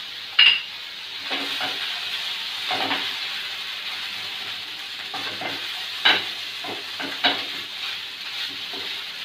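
Vegetable fried rice sizzling in a pan while a spatula stirs and tosses it, with a sharp scrape or knock of the spatula against the pan about once a second; the loudest knock comes right at the start.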